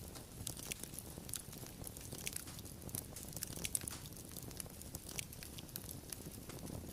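Fire crackling, with frequent irregular sharp pops and snaps over a low steady rush of flame.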